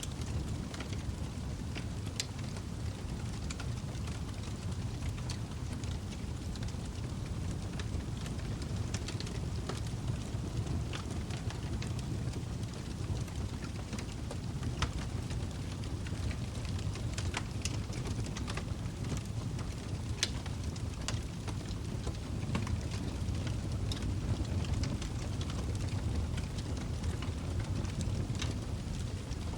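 Log fire burning in a fireplace: a steady low rumble of flames with irregular sharp crackles and pops from the burning wood, a few of them louder snaps.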